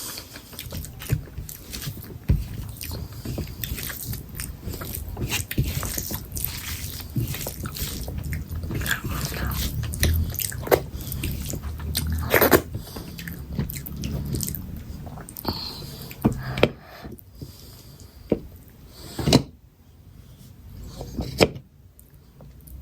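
A person chewing and biting chicken curry close to the microphone, with wet mouth smacks and sharp clicks throughout. The loudest snaps come about halfway through and near the end.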